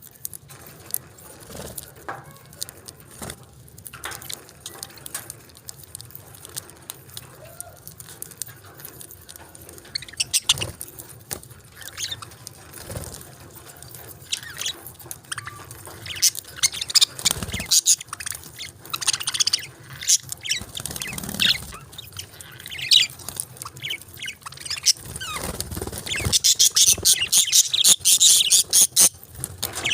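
Budgerigars chirping and chattering in many short high calls mixed with sharp clicks, growing busier and louder toward the end, with a dense run of rapid chirps near the end.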